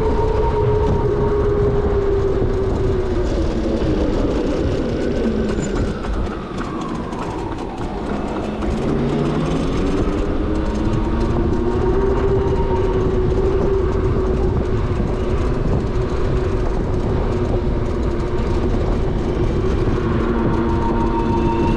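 Electric whine of a 72V Onyx RCR electric motorbike's motor while riding, with wind rushing over the microphone. The whine falls in pitch as the bike slows about a quarter of the way in, then rises again as it speeds back up and holds steady.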